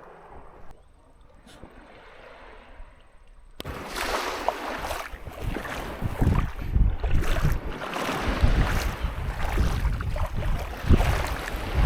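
Water splashing and sloshing with wind buffeting the microphone in low rumbling gusts. The sound is soft at first, then jumps abruptly to much louder about a third of the way in.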